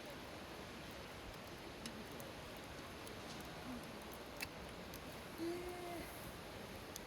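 Wood campfire burning with a steady hiss and a few sharp crackles and pops. A short pitched sound a little past halfway is the loudest thing.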